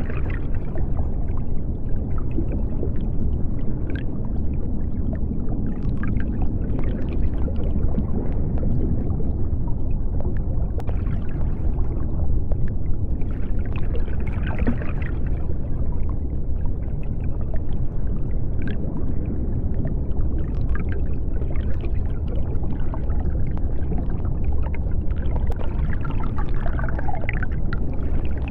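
Underwater ambience: a steady deep rumble of the sea, with faint scattered clicks and crackles over it.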